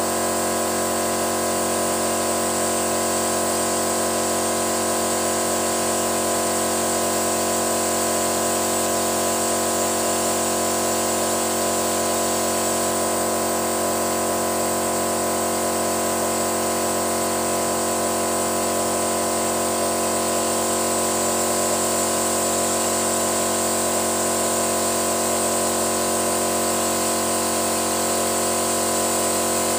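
Machinery running steadily with no change in speed, a constant hum of several steady tones under a hiss, during an engine carbon-cleaning treatment.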